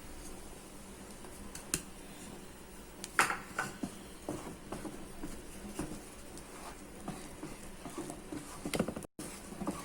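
A spoon stirring a thick, dough-like batter in a pan: soft scraping and squelching with scattered sharp taps against the pan, the loudest tap about three seconds in and a quick cluster of them near the end.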